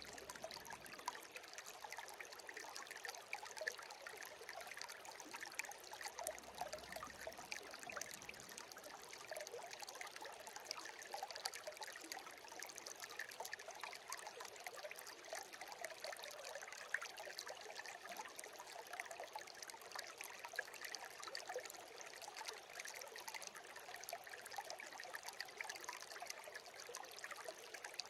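Small stream babbling and trickling over stones, a steady light burble with no low rumble.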